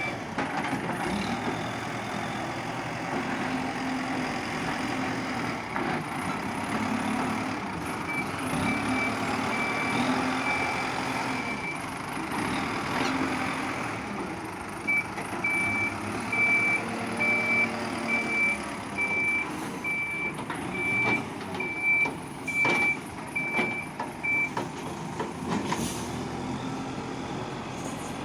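Backhoe loader's diesel engine running under load, with its reversing alarm beeping at a regular pace in two stretches. A couple of sharp knocks from the machine's work come near the end.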